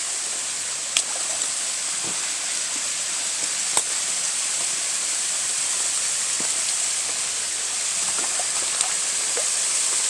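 Steady rushing hiss of running water from a creek and waterfall, growing slightly louder, with two sharp clicks of the camera being handled, about a second in and near four seconds.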